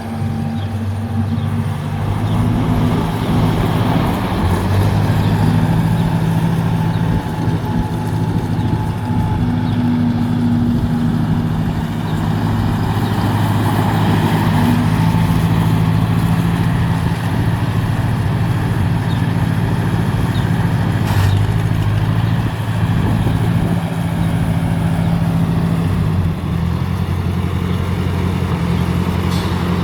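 1956 Ford 860 utility tractor engine running steadily, its speed stepping slightly a few seconds in and again near the end.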